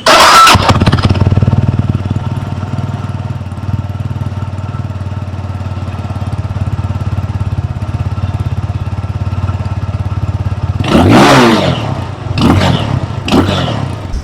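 Benelli TNT 25's 250cc single-cylinder engine starting from cold. It catches at once with a loud burst and settles into a steady idle, then is revved three times near the end, each rev rising and falling in pitch.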